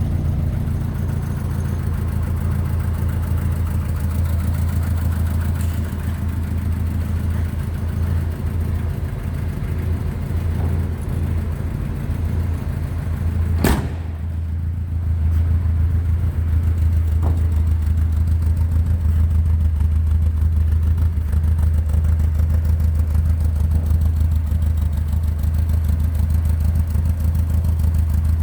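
Ford Escort Twin Cam's twin-cam four-cylinder engine running steadily at idle. One sharp knock comes about halfway through, after which the idle is a little louder.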